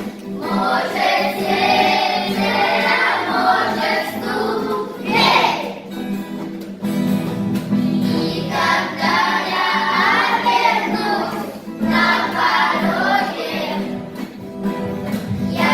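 Children's vocal ensemble singing a song in phrases, with a steady accompaniment underneath.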